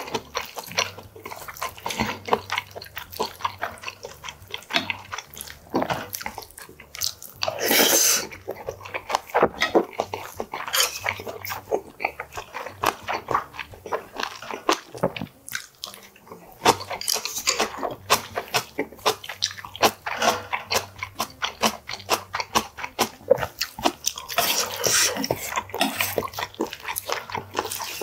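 Close-miked eating sounds: wet chewing and lip smacking, with a wooden spoon knocking and scraping in a brass bowl.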